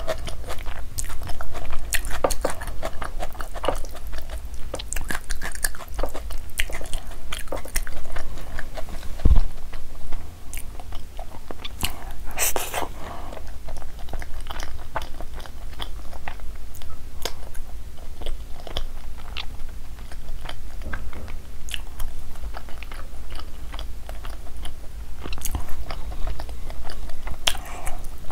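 Close-miked mouth sounds of a person chewing palak paneer eaten by hand: moist chewing with frequent lip smacks and clicks. There is a single low thump about nine seconds in.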